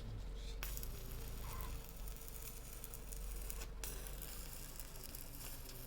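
Electric arc welding: the arc gives a steady crackling sizzle, starting about half a second in, breaking off briefly a little past halfway and then striking again, over a low steady hum.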